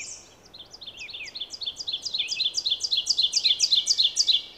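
Ovenbird singing its 'teacher-teacher-teacher' song: a fast run of repeated two-note phrases that grows steadily louder and then stops. Other birds call faintly around it.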